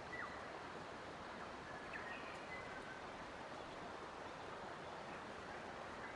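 Faint nature ambience: a steady rushing background noise with a few short, faint bird whistles, one near the start and a couple around two seconds in.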